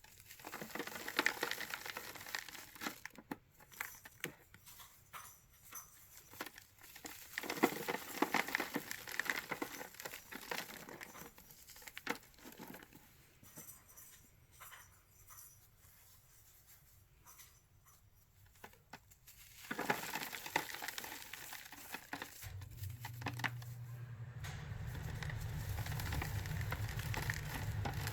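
Dusty cornstarch chunks mixed with Ajax powder being crushed, in bouts of crisp crunching and crackling with quieter pauses between. A steady low rumble comes in near the end and grows louder.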